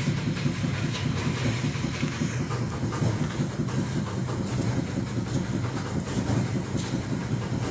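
Septic siphoning truck's engine and vacuum pump running steadily, with a fast rhythmic chugging pulse.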